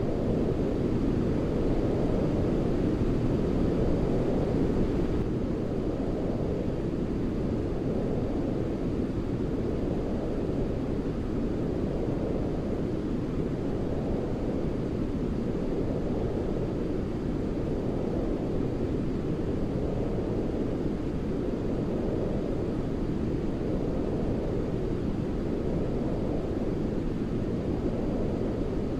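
A steady, deep rushing noise from a baby sleep noise track, its energy mostly low like brown noise, with a gentle swell about every two seconds.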